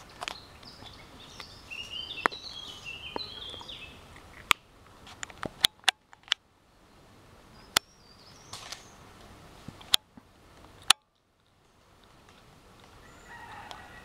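Wild birds singing in woodland, busiest in the first few seconds, with a few sharp single clicks scattered through and two brief cut-outs to dead silence.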